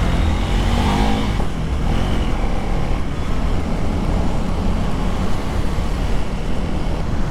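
Riding on a KTM 390 Duke motorcycle, its single-cylinder engine running under steady wind rush on a helmet-mounted microphone.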